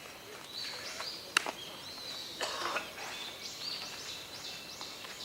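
Birds chirping over and over in short, high, curving calls, with a single sharp crack about a second and a half in.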